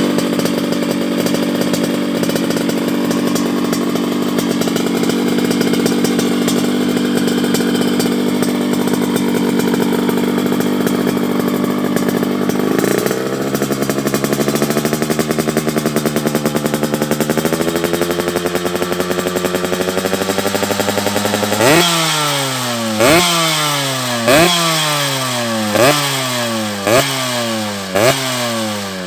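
Yamaha RX-series two-stroke motorcycle running through a competition under-belly expansion-chamber exhaust with a crisp tone. It idles steadily, and about halfway through the engine speed rises and holds a little higher. In the last seven seconds it is blipped repeatedly, each rev rising sharply and falling back, about every second and a half.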